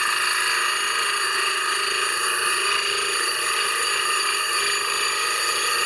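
Clipper blade held against a spinning sharpening wheel charged with abrasive grit, making a steady, high-pitched ringing grind.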